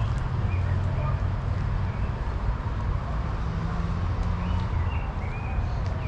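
Steady low rumble of city traffic, with short bird chirps over it that come more often near the end.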